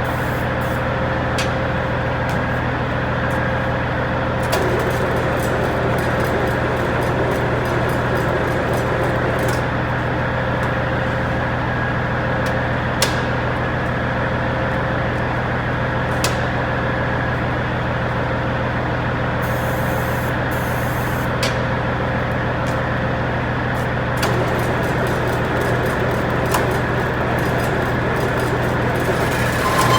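John Deere 4430 tractor's six-cylinder diesel engine idling steadily after a cold start, with a few light clicks now and then.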